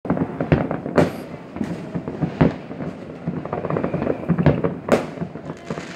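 Fireworks exploding in rapid succession: many sharp bangs over continuous crackling, with the loudest reports about one second and five seconds in.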